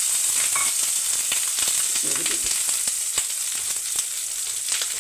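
Ground tomato and mustard masala paste frying in hot oil in a non-stick kadai: a steady sizzling hiss with many sharp little pops and crackles as the paste spits.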